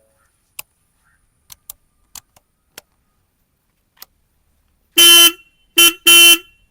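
Royal Enfield Classic 350 motorcycle horn honked three times in quick succession, the middle honk shortest, after a few faint clicks.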